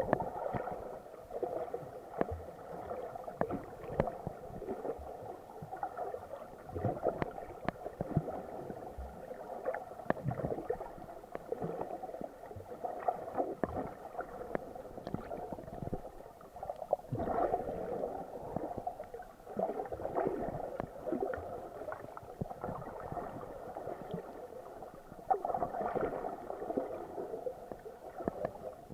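Water sloshing and gurgling around an SJ4000 action camera in its waterproof case while snorkeling, heard muffled, in uneven swells with scattered small clicks.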